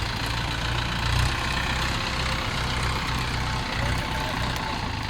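Tractor diesel engine running steadily with a low, even note.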